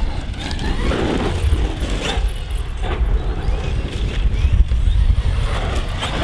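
Traxxas XRT 8S electric RC truggy being driven: its brushless motor and drivetrain running, with wind buffeting the microphone and a few short knocks about one, two and three seconds in.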